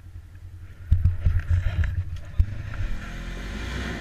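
Enduro motorcycle engine revving in uneven bursts of throttle from about a second in, then pulling away with the pitch rising steadily near the end.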